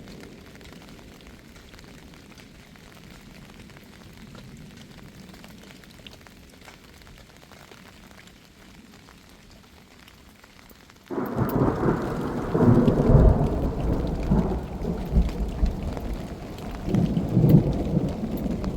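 Steady rain, then about two-thirds of the way through a sudden loud crack of thunder that rolls on as a deep rumble, swelling twice more.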